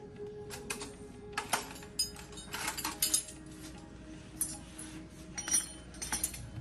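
Metal clinks and clanks of tools and parts being handled, a dozen or so sharp knocks at uneven intervals, over quiet background music.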